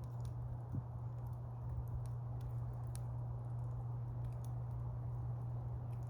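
Wood campfire burning, with scattered sharp crackles and pops from the wood over a steady low rumble, and one soft knock about a second in.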